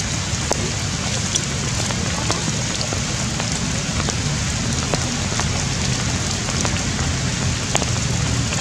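Steady rain falling, with many separate drops tapping sharply at irregular moments.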